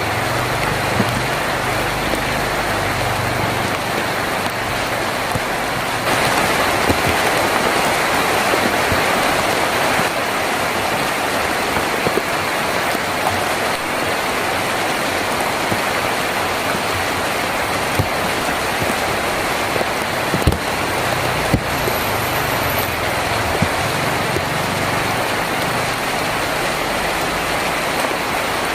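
Steady heavy rain drumming on a tin roof, with scattered sharper drip knocks. A low rumble swells under the rain during the first few seconds and again in the latter part.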